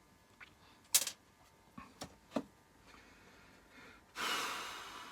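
A sharp click and a couple of fainter clicks, then a man's long breathy exhale that starts abruptly and fades over about a second.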